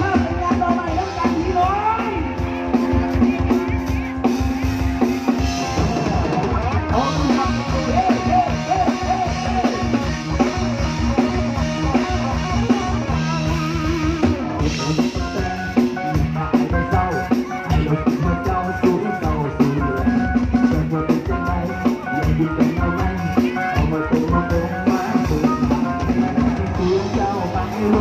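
Live band music with a drum kit and guitar playing a steady beat.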